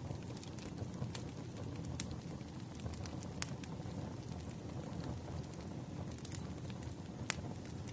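Wood fire crackling: a steady low hiss of burning logs with irregular sharp pops, the loudest about two seconds in, midway, and near the end.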